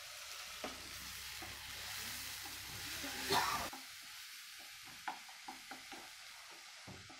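Onions and ginger-garlic paste frying in a non-stick kadhai with a steady sizzle, while a wooden spatula stirs and scrapes through them with scattered light knocks against the pan, one scrape louder a little past the middle.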